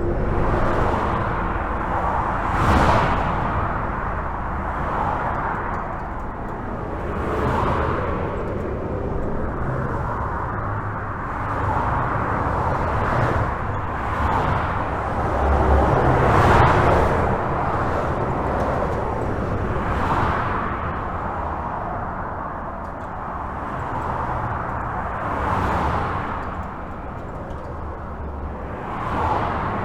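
Steady highway traffic heard from under a bridge: a continuous tyre and engine rush with a car passing by every few seconds, each swelling and fading, the loudest near the middle.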